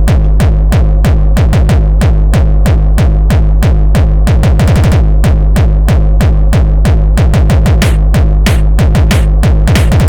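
Hardcore techno track at 186 BPM, with a heavy, distorted kick drum hitting about three times a second under synthesizer parts, and a quick drum roll a little before the middle.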